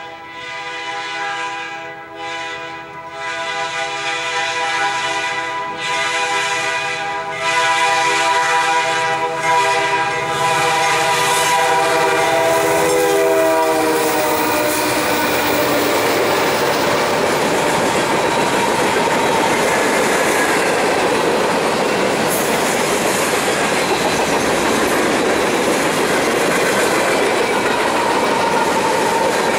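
Canadian National EMD SD60F locomotives approaching at speed, sounding a multi-tone air horn in a series of blasts that grow louder; the horn drops in pitch as the lead unit passes about 14 seconds in. After that the locomotives' engines at full throttle and the steady clickety-clack of freight car wheels fill the rest.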